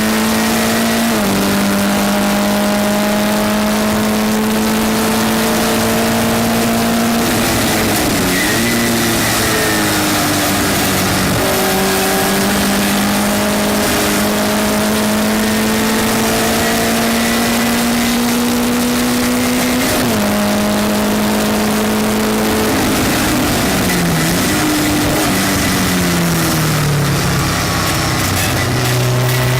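A Westfield race car's engine at full throttle on track, heard from on board. Its pitch climbs steadily in each gear and drops sharply at upshifts, about a second in and again about two-thirds through. It falls through dips and downshifts in braking zones around a third of the way in and near the end, over steady wind and tyre hiss.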